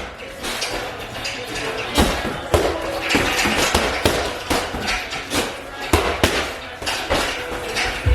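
Gym noise: irregular sharp clanks and thuds of equipment being handled, with voices underneath.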